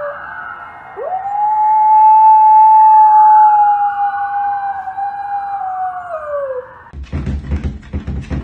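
A dog howling: the tail of one howl just at the start, then one long, loud held howl from about a second in that slides down in pitch as it ends. Near the end it cuts suddenly to loud music with a beat.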